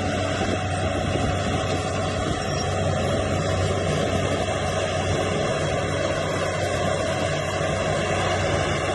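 Heavy earthmoving machine's diesel engine running steadily at an even pitch.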